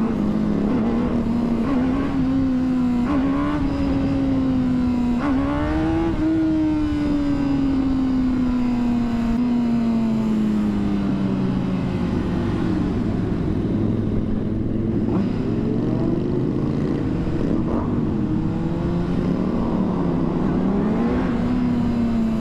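A Honda CBR600RR's inline-four engine running under the rider, its pitch rising and falling with the throttle. It climbs around the third and sixth seconds, then falls away slowly for several seconds as the bike slows.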